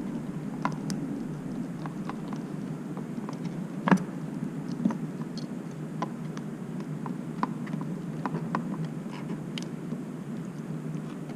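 Scattered small clicks and taps as plastic wiring-harness connectors are unclipped from the fuel injectors, with one sharper click about four seconds in, over a steady low hum.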